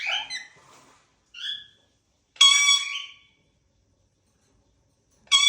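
Indian ringneck parrot giving shrill, steady-pitched whistle-like calls: a short soft one about a second and a half in, a loud one lasting under a second a little later, and another loud one near the end.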